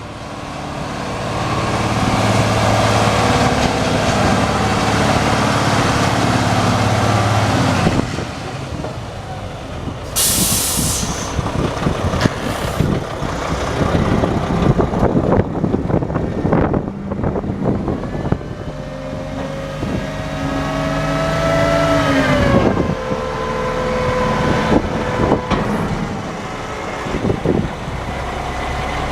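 2007 Mack CV713 dump truck's diesel engine running, building up over the first several seconds, with a short sharp hiss of released air about ten seconds in. Later the engine note climbs, then drops in pitch and settles lower.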